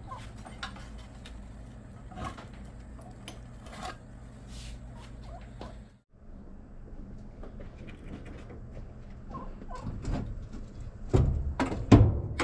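Metal parts being handled on a workbench: scattered clinks and knocks, with a few louder knocks near the end.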